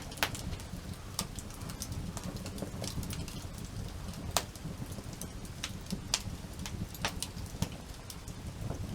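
Wood campfire crackling: sharp, irregular pops and snaps a second or more apart over a steady low rumble.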